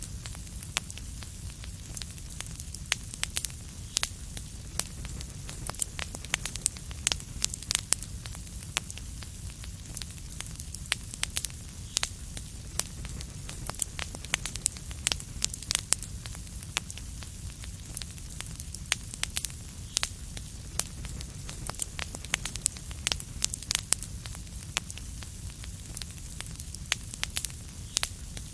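Wood fire in a fireplace crackling: frequent sharp, irregular pops and snaps over a steady low rumble and soft hiss.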